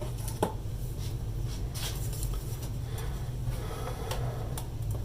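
Light handling sounds of a radio case being fitted together: a few faint clicks and scrapes about half a second, two seconds and four and a half seconds in, over a steady low hum.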